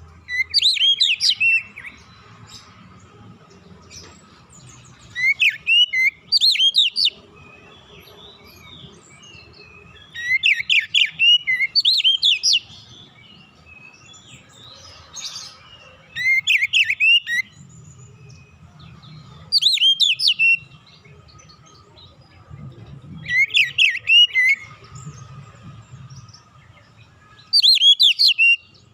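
Oriental magpie-robin (kacer) singing in short phrases of quick, sweeping chirps, about eight phrases a few seconds apart. A faint steady tone runs underneath.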